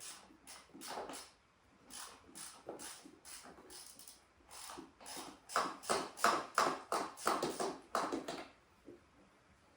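Hand ratchet wrench being worked back and forth on a bolt in quick strokes, about two to three a second, louder in the second half and stopping shortly before the end.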